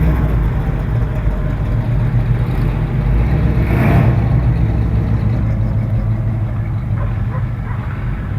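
A car engine running close by at low speed, a deep steady rumble that swells to its loudest about four seconds in as the car passes, then eases off a little.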